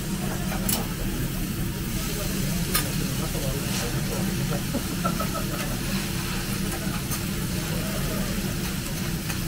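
Okonomiyaki sizzling on a flat iron griddle, with a few sharp clicks of metal spatulas, over a steady low hum.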